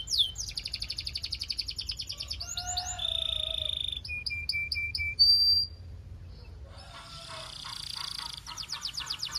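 Canary singing: rapid trills, a held steady note, a few short separate notes and a brief loud whistle about five seconds in. After a short pause, another fast trill starts near the end.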